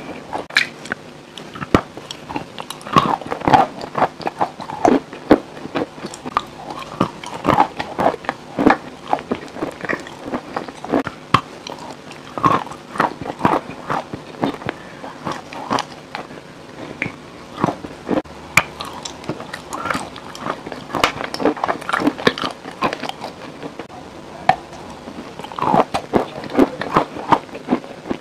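Close-miked eating sounds: biting and chewing with many sharp, irregular crackles and clicks.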